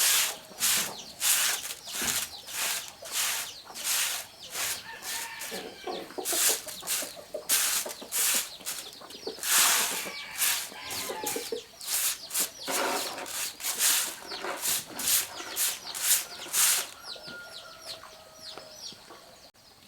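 Repeated scraping strokes, about two a second, stopping near the end, with chickens clucking and small birds chirping in the background.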